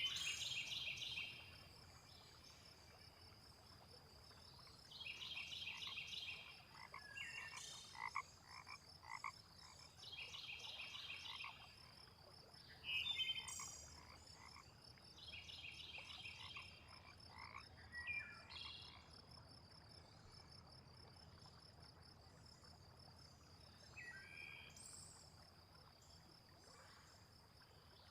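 Frogs calling in repeated bouts of rapid pulsed croaks, each bout about two seconds long and coming every few seconds, falling away in the second half with one last short call. A steady high insect trill runs underneath.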